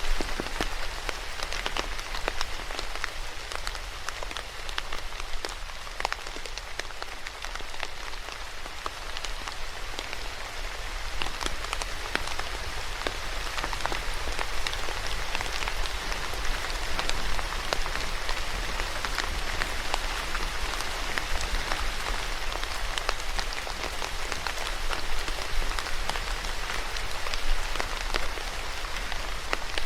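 Steady rain falling and pattering on a surface, with many individual drops ticking distinctly.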